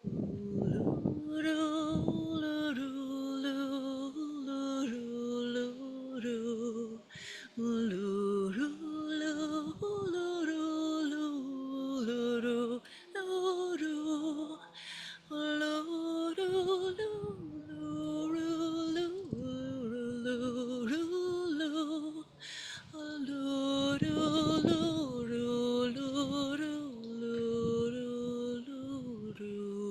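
A solo voice singing a slow devotional melody in long held notes with vibrato, sliding from pitch to pitch with brief breaks between phrases.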